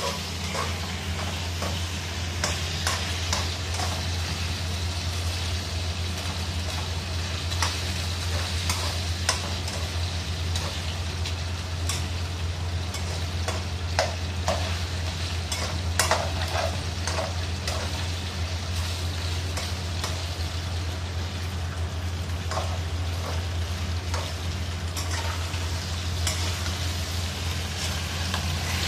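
Meat sizzling in a wok over a gas flame while being stir-fried, with irregular metallic clinks and scrapes of a spatula against the pan. A steady low hum runs underneath.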